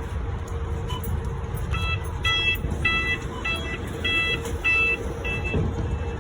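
Electronic beeping: about seven short, high beeps roughly half a second apart, starting about two seconds in, over a steady low rumble.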